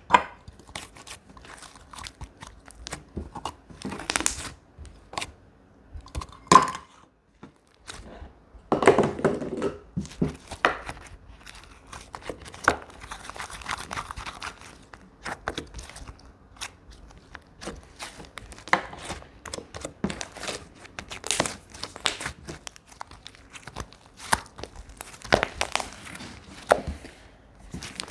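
Slime being squeezed, pressed and stretched by hand, giving an irregular stream of sticky clicks, pops and crackles, with a denser stretch of crackling about nine seconds in.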